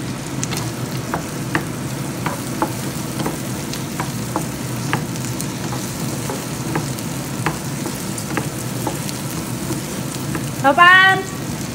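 Diced corn, carrots and meat sizzling steadily in oil in a frying pan, stirred and scraped with a wooden spatula, with scattered sharp pops. A loud voice breaks in near the end.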